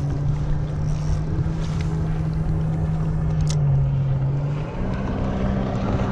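A steady engine drone, like a motorboat's outboard running out on the water, its pitch dipping slightly about three and a half seconds in and rising again about a second later. Wind rumbles on the microphone underneath.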